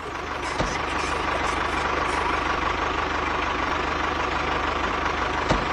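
Small motor of a home-built mini tractor running steadily, with a fast even pulse and a steady high whine. Two brief thumps come about half a second in and near the end.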